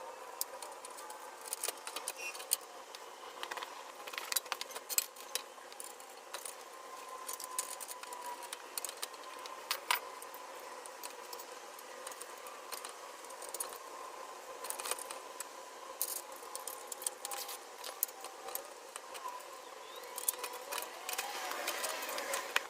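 Scattered metallic clinks and rattles of hand tools and small parts being handled, many short sharp clicks at irregular intervals over a faint steady hum.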